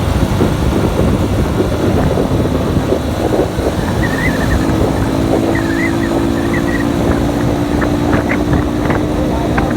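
Motorcycle riding along the road at speed, wind buffeting the microphone over a steady engine hum.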